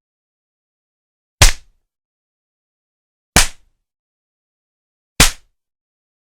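Three hard slaps with an open hand, about two seconds apart. Each is a single sharp crack that dies away almost at once, with dead silence between.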